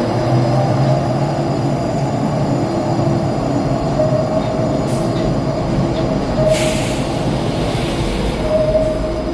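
Buffalo Metro Rail light-rail train running in an underground station, a steady rumble with a held tone, likely as it pulls out. A short hiss of air about five seconds in and a louder one a second and a half later.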